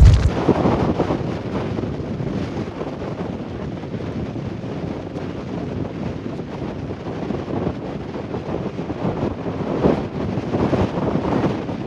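High wind blowing across the microphone, mixed with big lake waves breaking on the shore. A heavy gust rumbles at the start, and the waves swell louder about ten seconds in.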